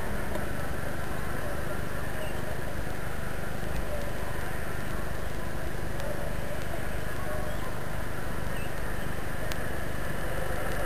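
Steady city background noise with a low rumble, broken by a few faint ticks; no bird calls.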